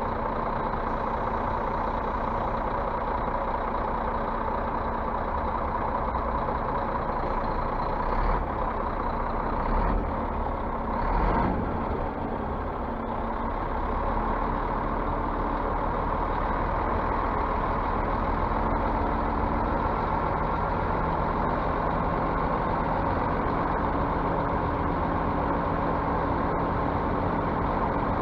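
Scania bus running steadily, a constant engine and road noise with a low hum. A few brief louder bumps come between about eight and twelve seconds in.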